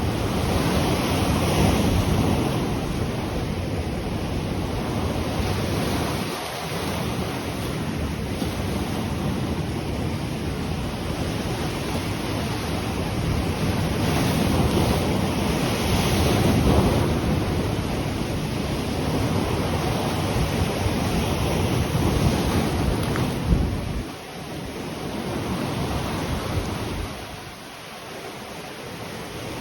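Ocean surf washing on the shore in a continuous roar that swells and eases every few seconds, with wind buffeting the microphone.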